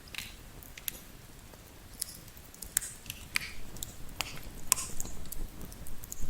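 Wood fire crackling in a fireplace: sharp pops and snaps at irregular times, coming more often and louder in the second half.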